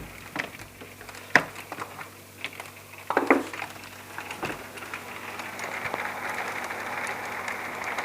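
Hailstones striking a window glass: scattered sharp ticks and knocks, one louder about a second and a half in. A steady hiss of falling hail builds up over the second half.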